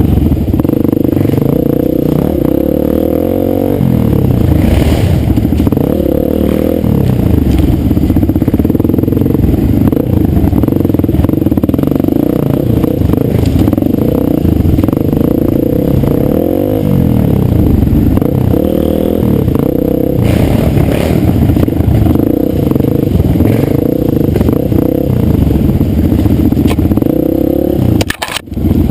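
Dirt bike engine running hard on a trail, its revs rising and falling again and again as the rider works the throttle, with clattering from the bike over rough ground. The sound dips out briefly near the end.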